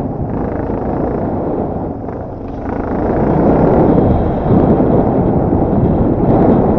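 Enduro dirt bike engine running while being ridden, mixed with wind buffeting the microphone; it gets louder about three seconds in.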